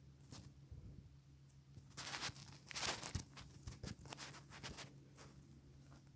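Handling noise: faint taps and rustles, with a louder scraping rustle about two to three seconds in, over a low steady hum.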